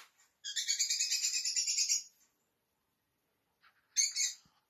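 A bird chirping: a fast run of high notes lasting about a second and a half, then a short second burst near the end.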